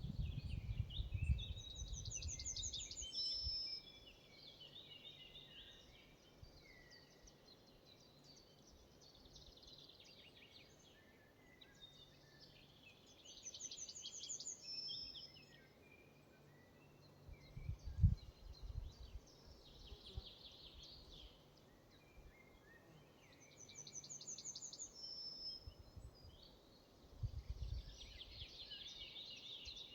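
A songbird sings the same short phrase about every eleven seconds, a fast high trill that ends in a brief flourish, with other bird calls between. Deep rumbles, like wind on the microphone, come at the start, again with a sharp thump about 18 seconds in, and once more near the end.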